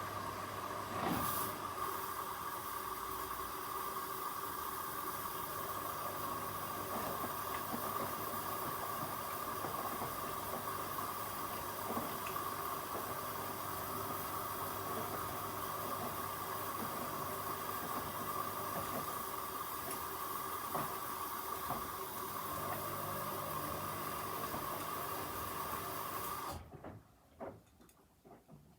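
Washing machine filling with water: a steady rushing hiss that cuts off suddenly near the end as the water inlet valve closes, leaving a few faint clicks.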